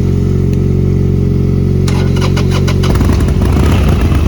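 Motorcycle engine idling steadily, with a quick run of clicks about two seconds in. About three seconds in, the engine note turns rougher and louder.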